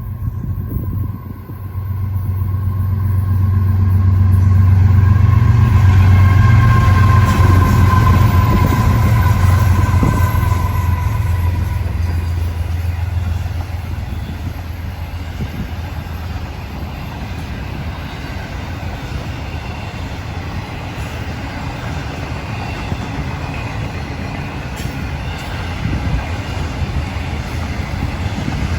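Florida East Coast Railway diesel locomotives passing close by, their engines swelling to loudest about five seconds in, with faint tones that sink in pitch as they go by. This is followed by a steady rumble of the train's cars rolling past on the rails.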